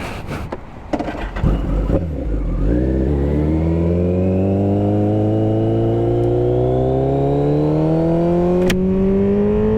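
Kawasaki ZX-14 motorcycle's inline-four engine pulling away from a stop, after a few knocks; its pitch then climbs smoothly and steadily for about seven seconds under acceleration, with one sharp click near the end.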